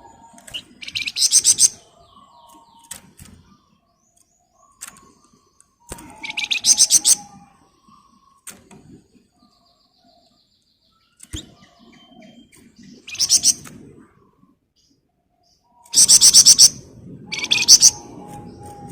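Flamboyan songbird giving short, dense rattling trills ('ngebren rapat'), five rapid high-pitched bursts of under a second each, spaced a few seconds apart.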